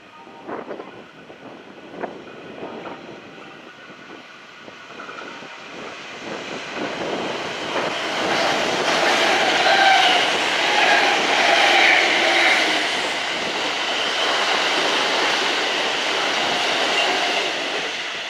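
Kintetsu electric train passing through the station, the wheels clicking over rail joints at first and the sound building to a loud rumble with a steady whine from about six seconds in, loudest around the tenth to twelfth second.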